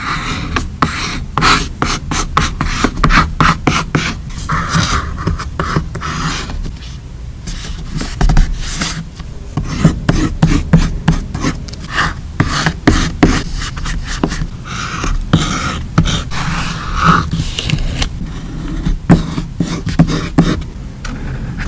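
Hands working paper and stickers in a journal: many quick taps and clicks, with short rustling, scratchy stretches in between as stickers and paper are handled and peeled.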